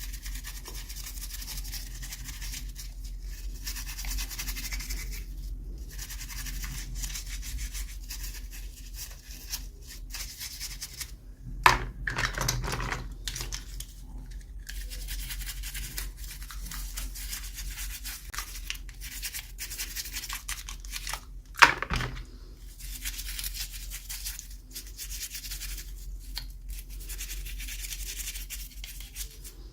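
Toy packaging being handled and opened by hand: continuous rubbing, scratching and crinkling, with two sharp snaps, about twelve seconds and twenty-two seconds in.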